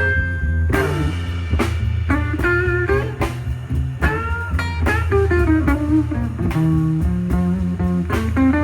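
Live blues band playing an instrumental passage: a lead guitar plays bending notes over a steady bass line and a drum kit.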